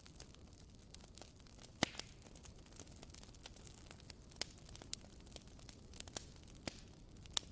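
Wooden-wick candle crackling: faint, irregular sharp pops, about six of them, over a low steady hiss, with the loudest pops about two seconds in and near the end.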